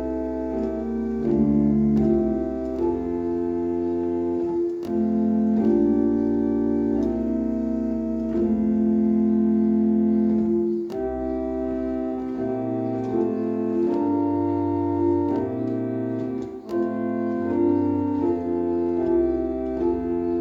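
Keyboard playing a slow hymn in held chords that change every second or so, with faint clicks at some of the changes. The player finds the playing choppy, the notes breaking off instead of joining smoothly.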